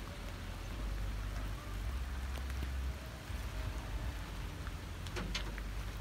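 Steady outdoor background noise: an even hiss over a low rumble, with a few faint clicks about five seconds in.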